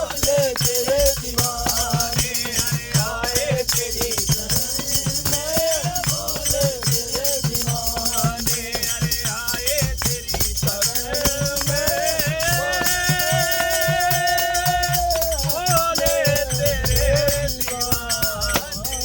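Men singing a Hindu devotional bhajan in kirtan style, backed by a steady rhythm of rattling hand percussion. One long note is held about two thirds of the way through.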